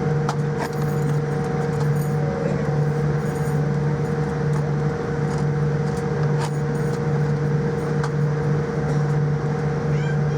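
Cabin noise of a Boeing 787-9 taxiing after landing: a steady hum of the idling engines and cabin air, with a constant low drone and a steady higher tone, and a few faint clicks.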